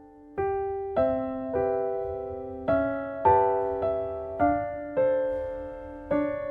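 Background music: a gentle solo piano melody, notes and chords struck one after another about every half second to second and each left to ring and fade.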